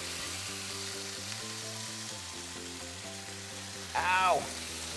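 Sauce-soaked corn tortillas with cheese and shredded beef frying on a Pit Boss Sierra flat-top griddle, a steady sizzle under soft background music. A brief voice sound comes in about four seconds in and is the loudest moment.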